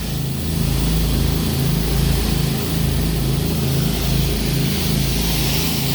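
Pressure washer's engine running steadily under the hiss of high-pressure water spraying from a surface cleaner onto concrete.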